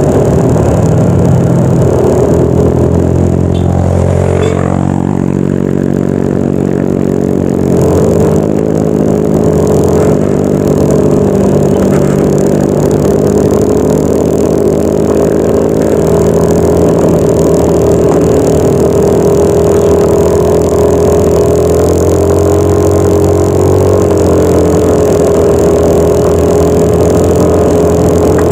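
Yamaha NMAX 155 scooter's single-cylinder engine running steadily while riding. Its note dips briefly about four seconds in, then picks up again about eight seconds in.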